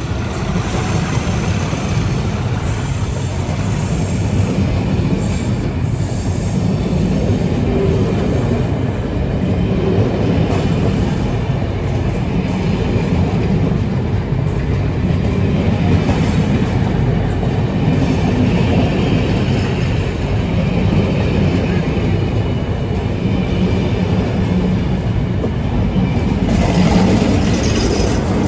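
Passenger coaches rolling slowly past at close range, wheels rumbling and clacking over the rail joints with some squealing. About two seconds before the end the sound grows fuller as the trailing Class 47 diesel locomotive comes past.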